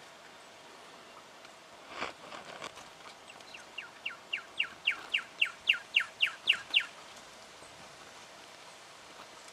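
Juvenile brown goshawk calling: a run of about fourteen short, downward-slurred notes at roughly four a second, growing louder and then stopping abruptly. A brief noisy burst comes just before the calls.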